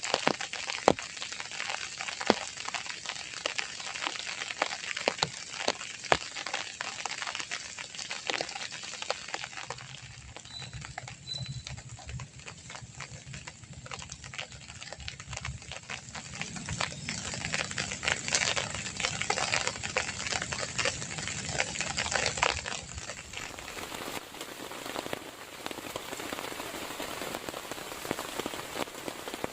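Rain falling, with many separate drops ticking sharply on a nearby surface over a steady hiss. About 23 seconds in, the sound shifts to a denser, more even rain hiss.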